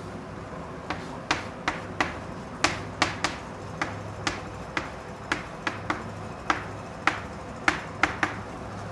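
Writing on a board: a series of about twenty sharp, irregularly spaced taps as the writing tool strikes the surface, over a faint low hum.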